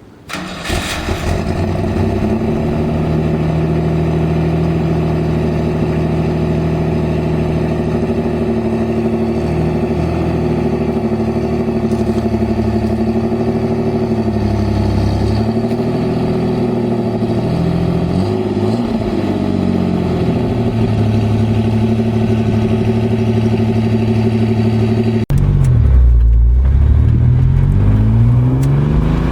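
A 1988 Pontiac Fiero GT's 2.8 L V6 running through an Ocelot aftermarket exhaust with the catalytic converter deleted and the exhaust manifolds ported. The sound comes in suddenly right at the start, settles into a steady idle with a few light throttle blips in the middle, and after a brief cut near the end the pitch dips and climbs as the engine is revved.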